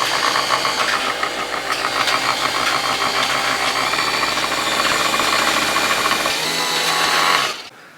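Nespresso Vertuo Evoluo coffee machine brewing: a loud, steady mechanical whir with a fast pulsing running through it, which cuts off suddenly near the end.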